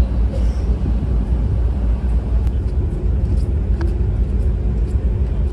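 Steady low rumble on board a car ferry under way, with a few faint clicks.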